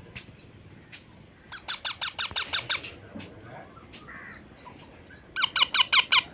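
Pet ringneck parrot screeching in two rapid runs of sharp, repeated calls, about nine notes about a second and a half in, then a shorter run of about six near the end.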